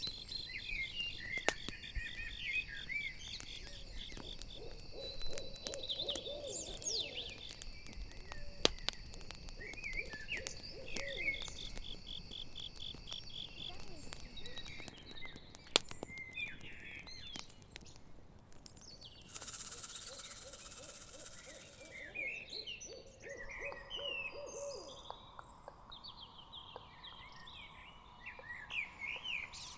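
Night-forest ambience: an owl hooting repeatedly over a crackling campfire with sharp pops, and crickets trilling until about halfway through. About twenty seconds in, a loud hiss lasts two or three seconds.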